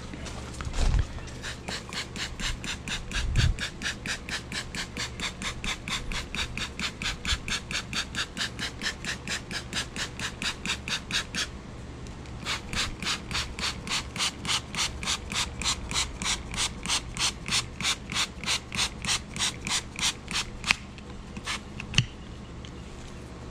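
Hand trigger spray bottle spritzing sugar syrup onto a hive frame and its bees, squeezed rapidly about four times a second in a long run, a short break about halfway, then another long run that stops a couple of seconds before the end.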